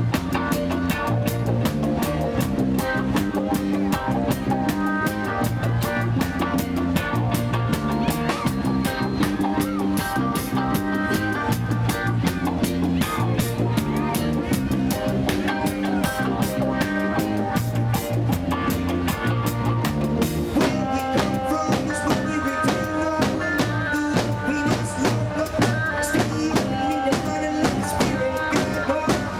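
Live reggae band playing an instrumental passage: a repeating bass line, drum kit with rimshots, and guitar.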